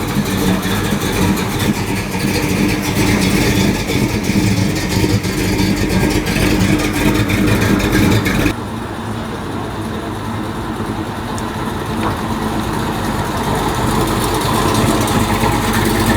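Car engine running with a steady drone. It drops abruptly about halfway through, then slowly grows louder again.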